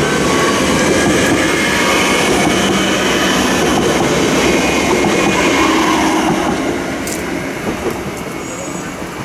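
Siemens Desiro electric multiple unit running past on the rails, a loud steady rush of wheels on track with thin whining tones over it, fading over the last few seconds as the train pulls away.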